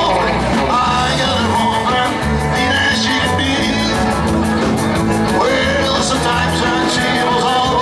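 Live rock and roll band playing, with electric guitar over stepping bass notes and drums keeping a steady beat on the cymbals.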